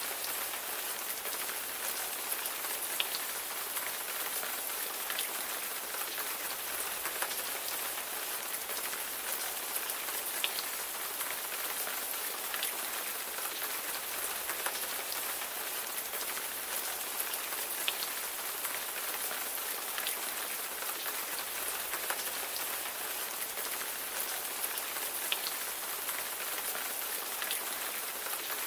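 Steady rain falling, an even hiss with separate drops ticking sharply here and there.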